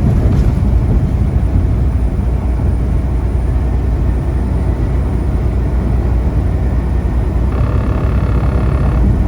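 Semi truck's diesel engine and road noise droning steadily inside the cab at highway speed. A brief higher-pitched tone sounds over it for about a second and a half near the end.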